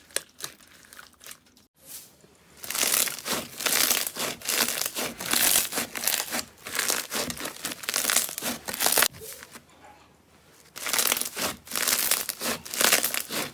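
Slime being squeezed and pressed by hand, making dense crackling and crunching with many fine clicks. It starts about two and a half seconds in, stops for a moment around two-thirds of the way through, and then starts again.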